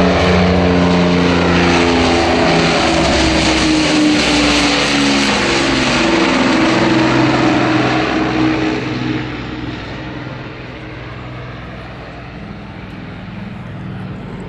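Avro Lancaster bomber's four Rolls-Royce Merlin piston engines droning loudly in a low flypast. The pitch drops as the aircraft passes, and the sound falls away about nine seconds in as it recedes.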